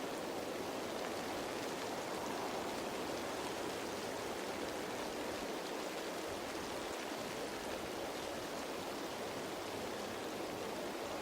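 Steady rain pattering on leaves, a dense, even hiss of drops with no breaks or single loud hits.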